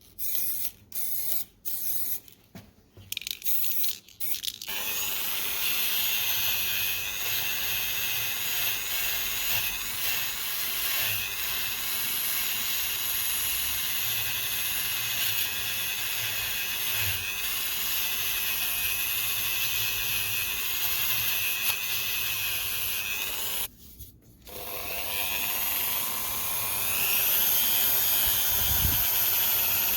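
A small electric power tool running steadily after a few short bursts. It stops for about a second and then starts again.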